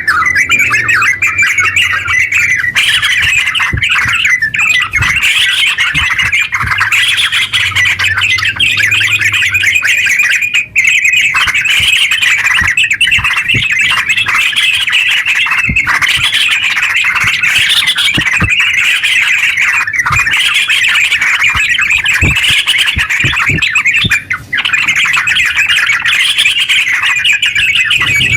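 Yellow-vented bulbul (trucukan) singing a long, unbroken run of fast, loud chattering notes, the rapid 'ngeropel' song, broken only by two very short pauses.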